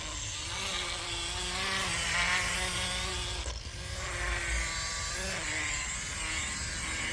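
A handheld electric power tool runs steadily, its motor pitch wavering slightly. It briefly drops off about three and a half seconds in.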